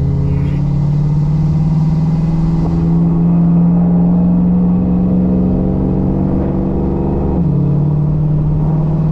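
Classic muscle car's engine idling through a newly fabricated dual exhaust with a crossover pipe, a steady, loud exhaust note whose pitch edges up over the first few seconds and drops a step about seven and a half seconds in. The engine is running rich, air-fuel ratio around 11, which makes the idle sound as if it might stall.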